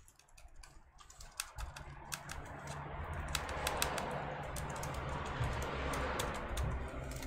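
Laptop keyboard keys pressed one at a time in an uneven, scattered series of clicks while the keys are being tested. A low steady hum comes in about one and a half seconds in.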